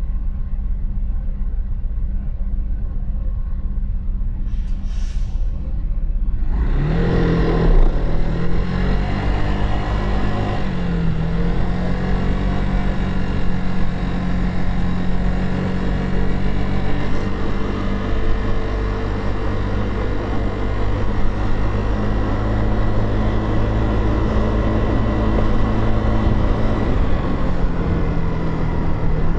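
Motorcycle engine idling, then pulling away about six seconds in, its pitch climbing through a gear change before it settles into steady running with road noise; it eases off near the end.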